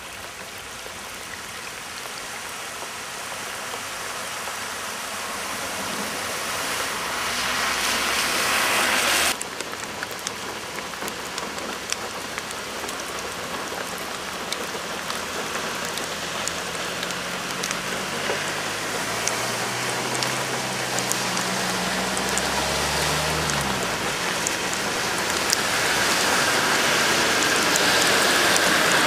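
Heavy thunderstorm rain pouring onto a flooded road and into standing floodwater, a dense hiss with many sharp drop ticks that grows slowly louder and drops abruptly about nine seconds in. A low vehicle engine hum rises and falls about two-thirds of the way through.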